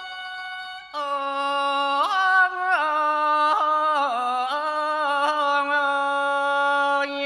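A solo voice sings a long, ornamented Thai classical vocal line from about a second in, holding notes with wavering turns and slides between them; a held instrumental note fades just before it.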